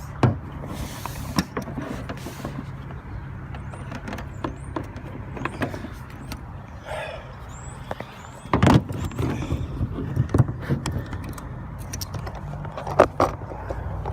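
A fender flare being handled and held up against the Jeep's body: scattered knocks and clatters over a steady low hum. The sharpest knocks come right at the start, about nine seconds in, and about thirteen seconds in.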